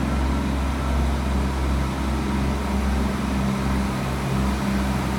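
Irish Rail 22000 class ICR diesel multiple unit standing at the platform with its underfloor diesel engines running, a steady low hum with no change in pitch.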